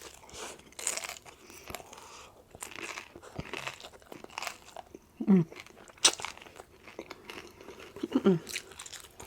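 Close-up biting and chewing of crisp rolled tacos: irregular crunching and crackling, with a couple of short hums from the eater about five and eight seconds in.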